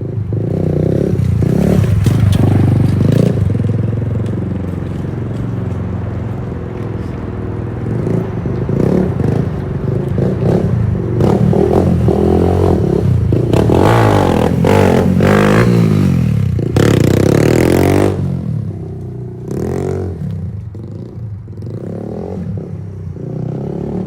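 Motorcycle engine running while riding, its pitch rising and falling with the throttle, with a loud rushing noise over it for a few seconds past the middle.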